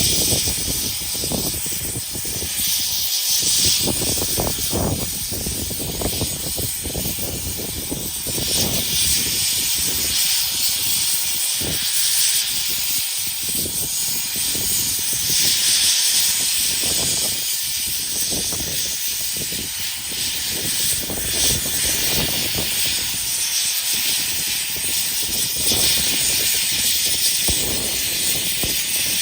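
Steam locomotive letting off steam: a loud hiss that swells and fades, with irregular low thumps underneath.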